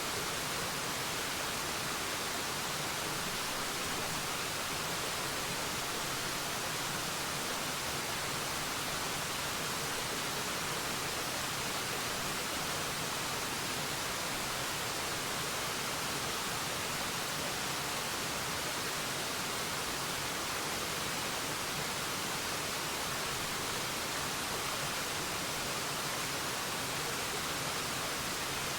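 Forest waterfall: a steady, even rush of falling water, the hiss strongest in the high range and unchanging throughout.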